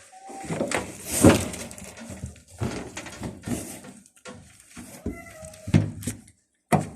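Hungry cats meowing in short calls, among a run of irregular knocks and rustles.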